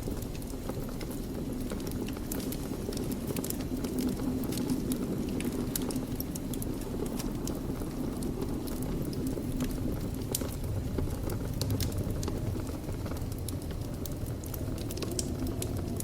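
Fire burning in a fireplace: a steady low sound of the flames with many small sharp crackles and pops scattered throughout.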